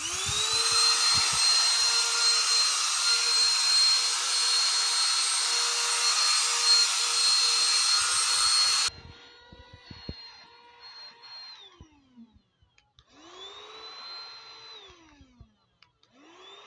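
Small 3-in-1 vacuum cleaner's motor switched on, spinning up to a steady high whine with a rush of air. About nine seconds in the sound drops suddenly to a much lower level, and the motor winds down about three seconds later. It is then switched on twice more for a couple of seconds each, spinning up and winding down each time.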